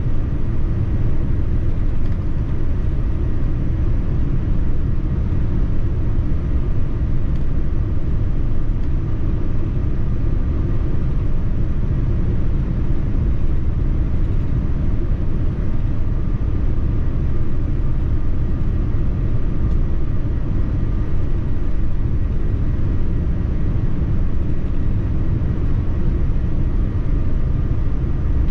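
Steady low rumble inside the cabin of a Boeing 787-9 airliner, the even drone of engines and air heard from a passenger seat.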